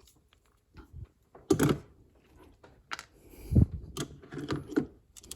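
Irregular light clicks, taps and rattles of a small hand driver and loose bolt being handled at the engine intake, with a duller knock about three and a half seconds in.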